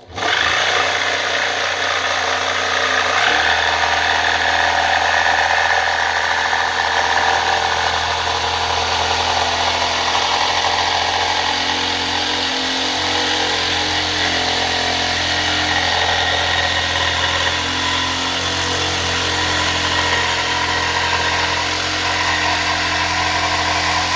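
A loud electric motor-driven tool running steadily, switched on at the start and cut off right at the end, with a steady low hum under a dense high-pitched rush.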